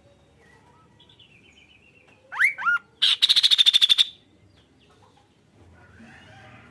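Kaso-kaso bird calling: two quick swooping whistles, then a loud, fast rattling burst of about ten sharp high notes in a second.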